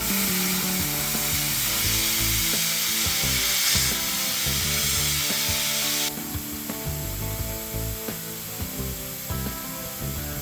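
Compressed air hissing out of a PCP air rifle's degassing port as the gun is emptied. A loud, steady hiss drops suddenly to a much fainter one about six seconds in.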